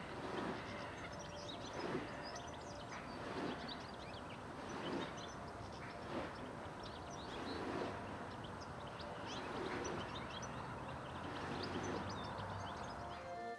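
Small songbirds calling, many short high chirps scattered throughout, over a steady low rumble of background noise. Soft dull thuds recur about every one and a half seconds.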